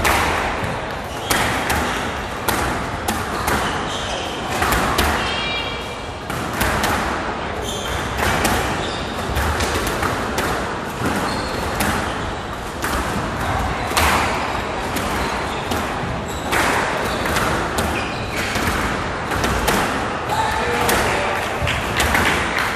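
Squash rally: the ball is struck by rackets and hits the walls and floor in a run of sharp impacts every half second to a second, with occasional shoe squeaks on the court floor.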